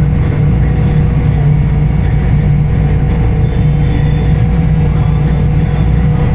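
Farm tractor engine running steadily at a constant, even level.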